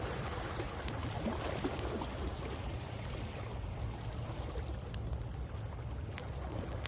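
Wood fire crackling with scattered sharp pops, over sea waves washing on the shore and a steady low rumble; a wave swells and recedes in the first two seconds.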